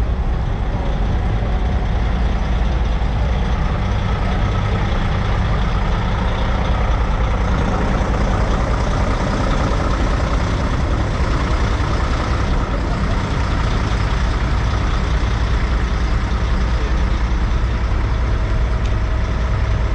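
Diesel engines of semi trucks running with a steady, unbroken low rumble.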